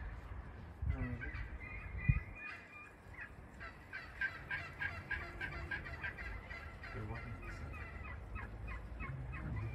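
Birds calling in a long run of quick, short chattering notes, with a single sharp thump about two seconds in.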